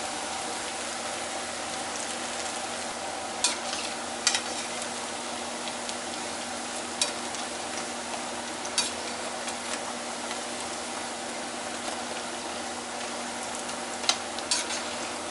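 Yuca sticks frying in hot oil in a stainless steel skillet, a steady sizzle, with a metal spatula clicking and scraping against the pan about six times as the pieces are turned.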